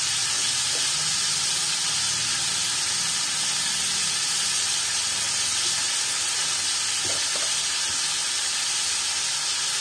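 Steady sizzling of vegetables frying in oil in a wok, with fresh red amaranth greens piled on top.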